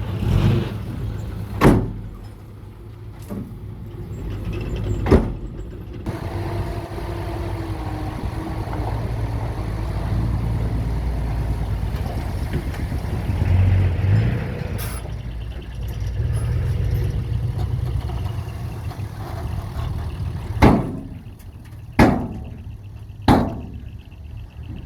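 Radio-controlled model dump trucks and bulldozer working: a steady low engine-like drone, with five short sharp knocks spread through, two of them near the start and three near the end.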